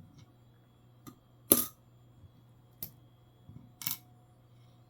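Small sharp clicks and taps of coins being handled and set down on a desk, four of them, the loudest about a second and a half in.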